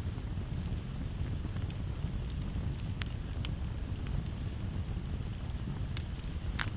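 Campfire crackling, with scattered sharp pops over a low steady rumble; two louder pops come near the end. A steady high cricket trill runs underneath.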